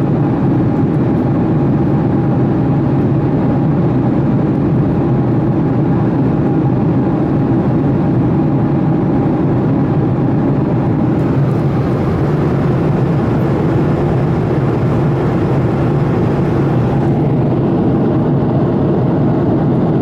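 Steady roar of engines and rushing air heard inside the passenger cabin of a Boeing 757-200 in climb after takeoff, with a faint steady hum over it; the higher hiss thins slightly near the end.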